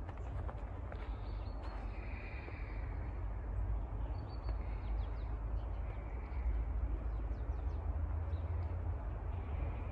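Outdoor ambience: a bird calls a few times, each call short and spaced a second or more apart, over a steady low rumble.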